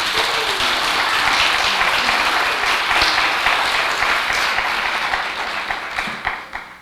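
Audience applauding, the clapping thinning to a few single claps and stopping near the end.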